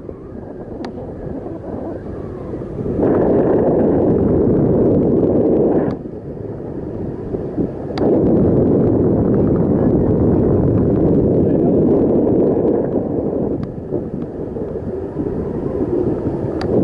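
Wind buffeting a microphone carried on a moving bicycle: a loud low rumble that swells and falls back every few seconds, with a few sharp clicks.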